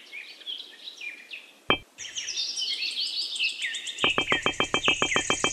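Birds chirping and twittering, with one sharp click a little before two seconds in. About four seconds in, a rapid, even pulsing trill of roughly ten pulses a second joins the chirps.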